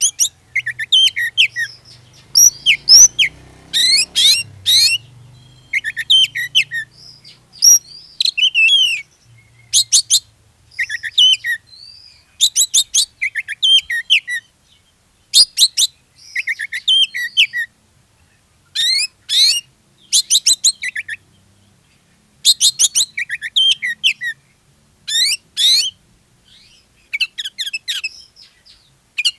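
Oriental magpie-robin in full song: loud phrases of rapid, high whistled and chattering notes, one phrase every second or two with short pauses between.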